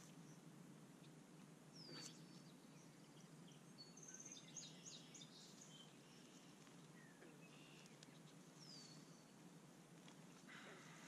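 Faint outdoor ambience with birds calling: a short downward-slurred chirp about two seconds in and again near nine seconds, and a quick run of chirps around four to five seconds in, over a low steady background rumble.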